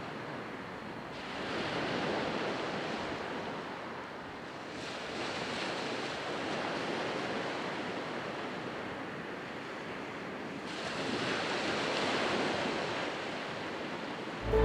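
Ocean waves breaking on the shore: a steady wash of surf that swells three times, a few seconds apart.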